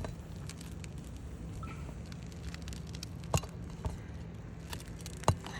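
Four sharp knocks of a hammer or pry bar on a roofing nail being worked out of asphalt shingles, spread over a few seconds with the loudest near the end.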